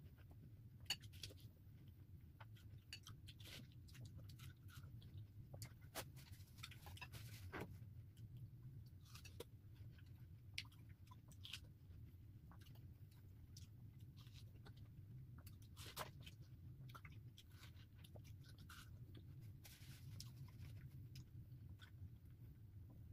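Faint chewing and wet biting of watermelon, with scattered soft smacks and clicks and a few sharper clicks, over a steady low hum.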